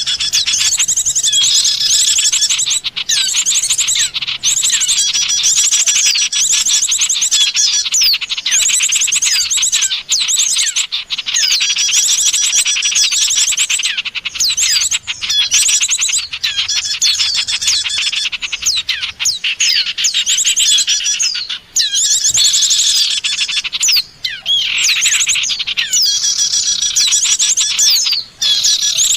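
A bird-luring recording of many small songbirds chirping and calling at once, in a dense, rapid, high-pitched stream of overlapping chirps and trills, broken only by a couple of brief pauses.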